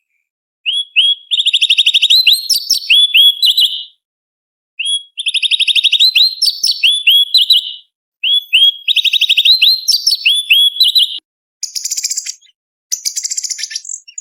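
Orange-bellied leafbird (cucak cungkok) singing. It gives three near-identical phrases of rapid trilled notes with quick upward-sweeping whistles. Two harsher, buzzy chattering bursts follow near the end.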